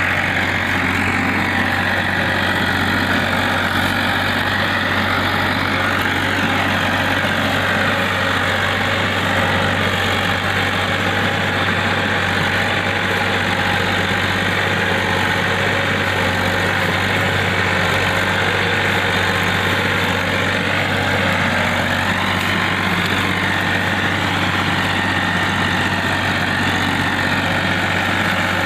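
Diesel tractor engine running steadily at one constant speed, a low even hum that does not rise or fall.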